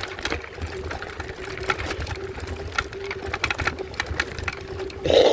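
A folding e-bike's electric motor whining steadily under load on a steep climb, with rapid clicking and rattling from the bike over a rough track and a low rumble underneath. A brief louder sound comes near the end.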